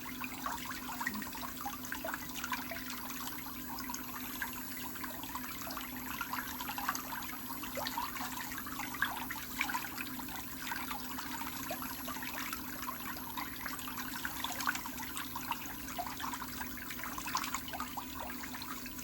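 Steady trickling, bubbling water with a low hum underneath.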